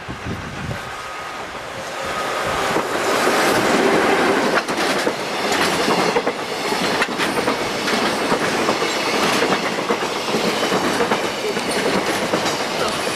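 Electric-hauled freight train passing close by. Its sound swells over the first few seconds as the locomotive arrives, then the wagons' wheels keep clattering over the rail joints in a steady run of clicks.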